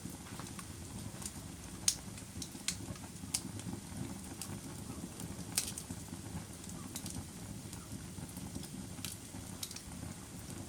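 Wood fire burning in a fireplace: a steady low rumble of flame with sharp crackles and pops scattered irregularly, about one every second or so.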